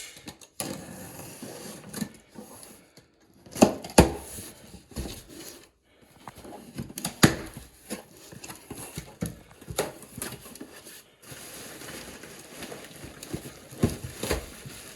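Unpacking parts from a cardboard box: rustling packaging with scattered sharp knocks and clicks as pieces are handled and set down.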